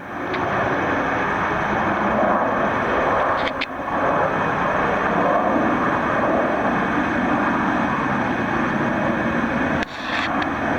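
Jet airliner engines making a loud, steady rush of noise as a plane passes close by.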